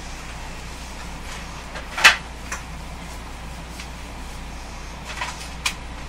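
In-car sound of a JR West 221 series electric train: a steady low hum with a few sharp clicks, the loudest about two seconds in and two smaller ones near the end.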